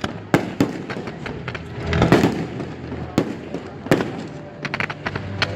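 Aerial fireworks bursting in a string of sharp bangs a second or so apart, with a louder swell about two seconds in. A quick run of small crackles comes near the end.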